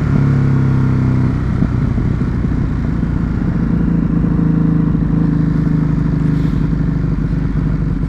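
Ducati Hypermotard's L-twin engine running under way; its note shifts about a second in, then holds steady.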